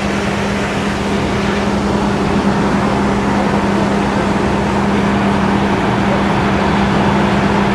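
Fire truck engine running steadily, a constant low hum at one pitch under a wash of broad noise.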